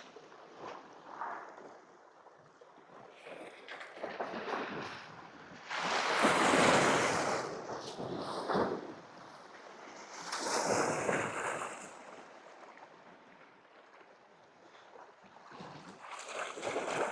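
Sea waves washing against shore rocks, coming in several slow surges and ebbing between them, the biggest a few seconds in.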